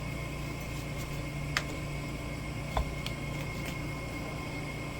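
Steady background hum with a few light metallic clicks and a soft knock, about a second and a half and just under three seconds in, from parts of a skid steer's hydraulic drive motor being handled during disassembly.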